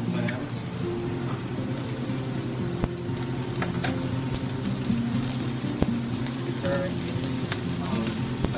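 Clams, mussels and diced vegetables frying in oil in a paella pan, a steady sizzle with scattered pops and crackles.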